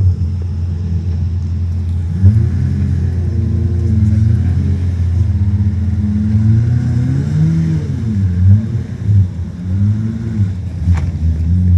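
Pagani Zonda's V12 engine being revved, its pitch climbing and dropping again several times, with a sharp click near the end.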